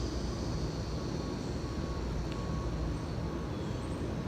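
Steady low rumble of road traffic with no distinct events.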